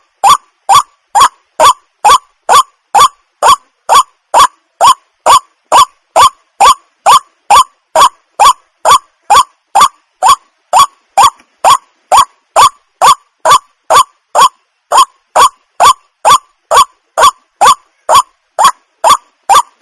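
Water hen calling: one short, harsh note repeated steadily about two and a half times a second, without a break.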